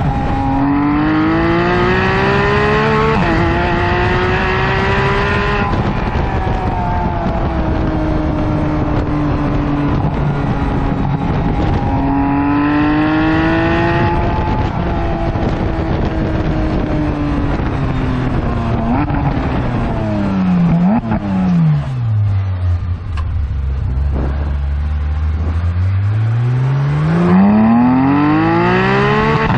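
Porsche 991.1 GT3's 3.8-litre flat-six through an aftermarket Top Speed center exhaust, accelerating through several gear changes, the pitch climbing and dropping back at each shift. About twenty seconds in, it falls to a low steady note, then climbs again near the end.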